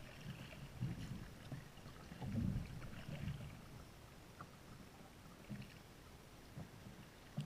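Water sloshing and low thumps from a kayak being paddled, stronger in the first half and faint after about four seconds.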